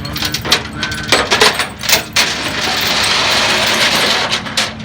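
A quick run of metallic clanks and rattles over a low idling engine, then a loud hiss of air lasting about two seconds, followed by a few more clanks.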